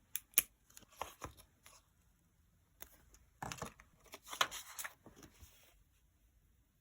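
Sticker sheets and paper being handled: a few sharp ticks, then a stretch of peeling and tearing rustles in the middle that dies away near the end.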